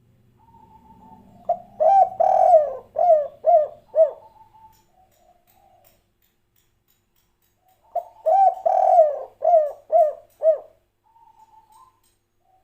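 Spotted dove (tekukur) singing its 'kuk 3' song: two phrases about six seconds apart, each a soft opening coo followed by a run of short, clipped coos, with quieter low coos between the phrases.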